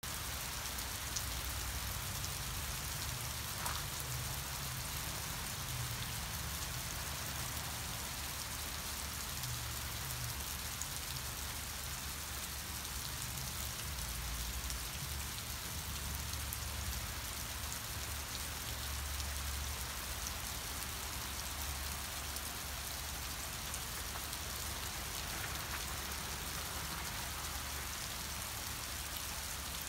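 Steady rain falling, an even hiss of drops on the surroundings, with an uneven low rumble underneath.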